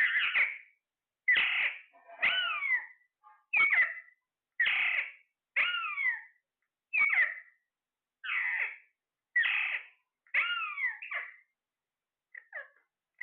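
A parrot calling over and over, about one short call a second, several of them sliding down in pitch, with a brief pause and a few fainter calls near the end.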